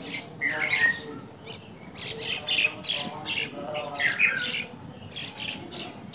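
Birds chirping in the background: an irregular run of short, high calls, several a second.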